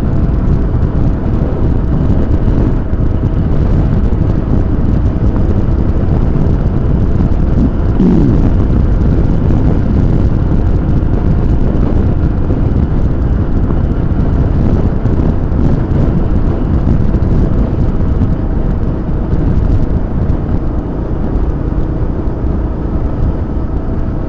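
Riding noise from a moving motorcycle: dense, steady wind rush on the action camera's microphone, with the engine running steadily beneath it.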